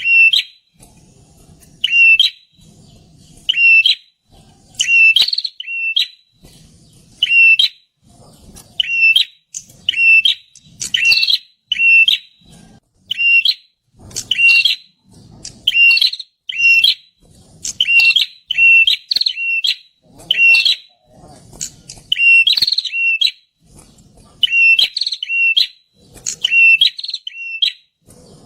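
A prinia (perenjak) calling loudly. Short, sharp notes come singly or in quick runs of two or three, repeated every second or two.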